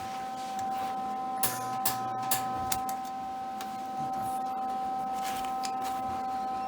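MIG welder working in short stops and starts: brief crackling bursts of the arc and sharp clicks, with the wire-feed motor humming low during the first bursts. A steady high whine runs underneath.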